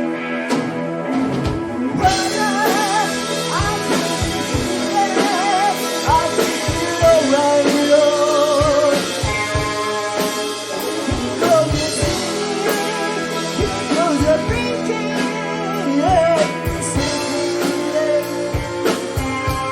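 Live hard rock band playing, with drums, sustained chords and a melody line with wide vibrato.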